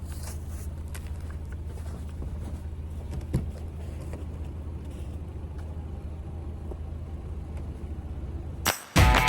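Car engine running steadily, a low hum with one sharp click about three seconds in. It cuts off near the end, where loud guitar music begins.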